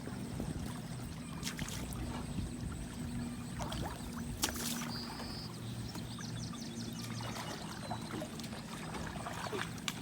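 Water trickling and lightly splashing around a makeshift pallet-and-plastic-barrel raft as it is paddled, with scattered small knocks and drips.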